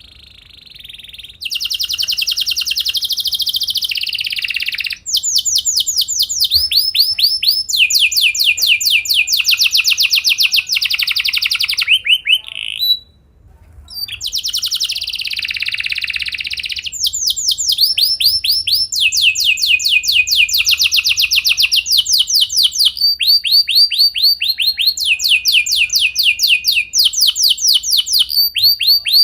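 Canary singing a long rolling song: fast trills of repeated down-sweeping notes, switching to a new trill every second or two, with one short break about halfway through.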